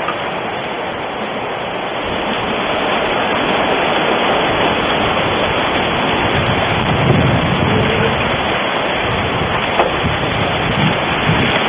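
Strong wind buffeting the microphone: a steady rushing noise with gusts that rumble low, heaviest in the second half.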